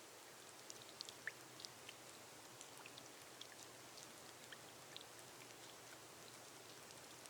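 Gentle rain falling on a glass roof: a soft, steady hiss with scattered drops ticking, a few of them louder around a second in.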